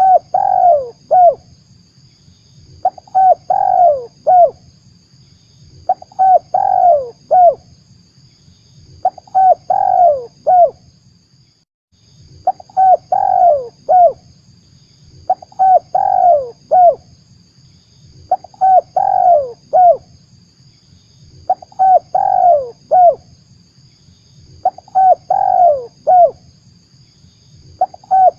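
Spotted dove (tekukur) cooing as a lure call for trapping, the same short phrase of three or four falling notes repeated about every three seconds.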